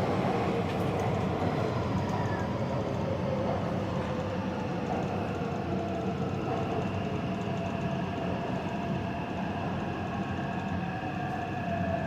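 Taipei Metro Zhonghe–Xinlu line train running along the track: a steady rumble with several whining motor tones that slowly shift in pitch.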